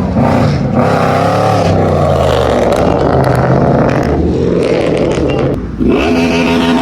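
Car engines revving hard, the pitch rising and falling several times. About six seconds in, one engine climbs sharply and holds at high revs.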